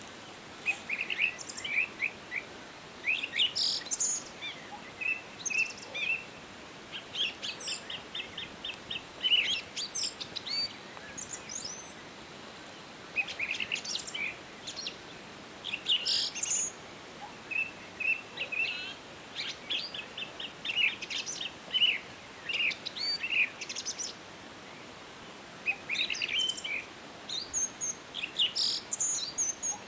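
Several songbirds calling and singing throughout, with short chirps and quick runs of repeated notes, over a faint steady background hiss.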